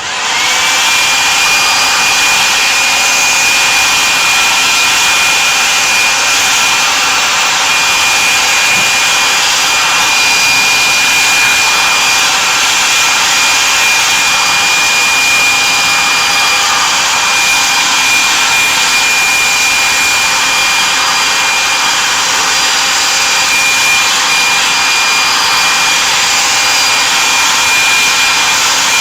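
A small high-speed blower motor switches on, its whine rising within the first second. It then runs steadily with a loud air rush and a constant high whine.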